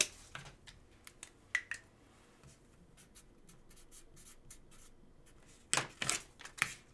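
Hands handling trading cards: faint scattered clicks and slides of cards, with a few louder scraping strokes near the end.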